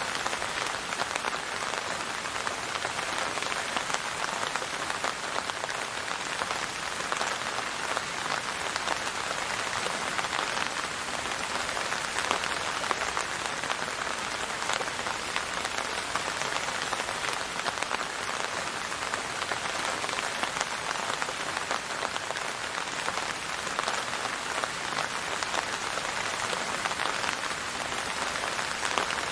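Steady rain falling on a surface, a dense even patter of many drops with no thunder or music.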